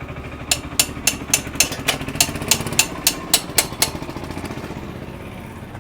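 Royal Enfield Thunderbird 500X's single-cylinder engine idling steadily. Over it, a quick run of about a dozen sharp knocks, roughly three a second, starts about half a second in and stops near four seconds.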